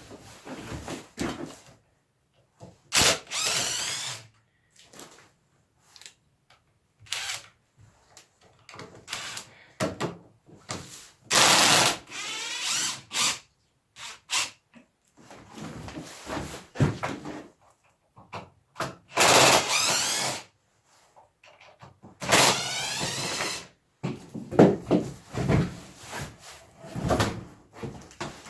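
Power drill driving screws into a log to fix it to a bandsaw sawmill jig, in several short bursts of about a second each, with knocks and clatter of the wood being handled between them.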